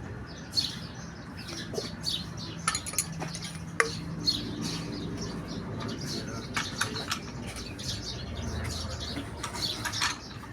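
Valve being hand-lapped into its seat on a Volvo FMX 400 cylinder head: repeated short gritty swishes as the valve is twisted back and forth on emery grinding paste, with a couple of sharp metal clicks.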